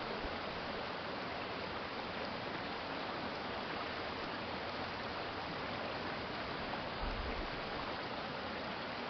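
Urban stream flowing: a steady, even rush of water, with a brief low rumble about seven seconds in.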